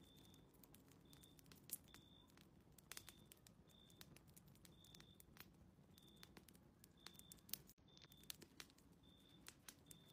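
Faint fireplace crackling: scattered sharp pops and snaps of burning wood at irregular intervals. A faint short high tone repeats about twice a second throughout.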